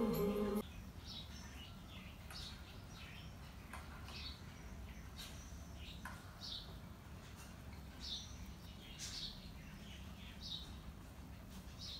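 Background music with singing cuts off about half a second in. After that come faint, scattered bird chirps, short calls at irregular intervals, over a low steady hum.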